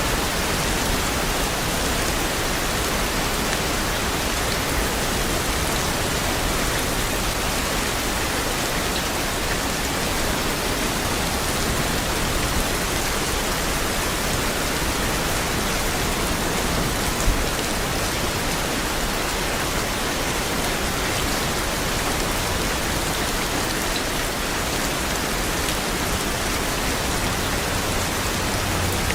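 Steady rain falling, an even hiss of countless drops, with one sharp tap a little past halfway.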